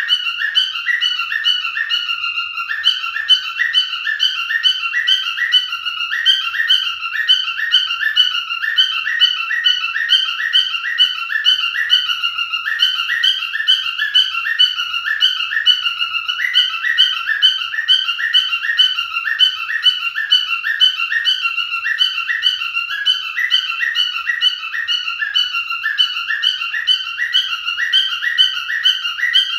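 Pied cockatiel singing: a continuous run of rapid, repeated chirping whistles.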